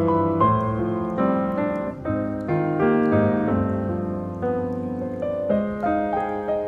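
Background piano music: a gentle melody over sustained chords, each note struck and slowly fading.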